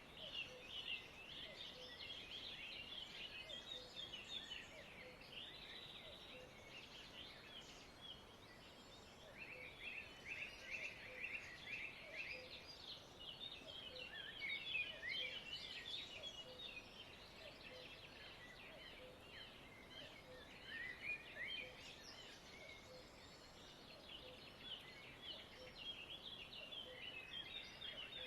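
Many small birds chirping and twittering together in a continuous dense chatter, like a flock in an aviary.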